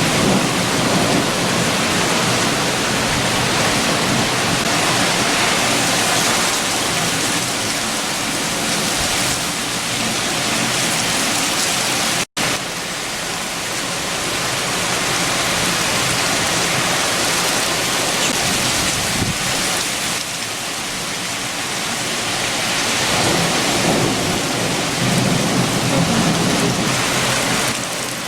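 Heavy rain with strong wind, a dense steady hiss with low rumbling swells near the start and again near the end. The sound drops out for an instant about twelve seconds in.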